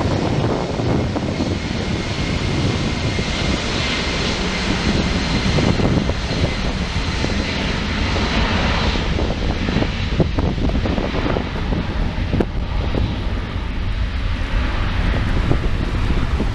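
Jet airliner's engines roaring steadily as it passes close by at the airport, with a faint high whine above the roar. Wind buffets the microphone throughout.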